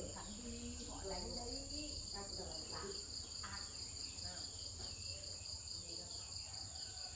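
Insects chirping: a steady high trill together with a pulsing chirp repeating about four times a second, with faint low voices under it in the first few seconds.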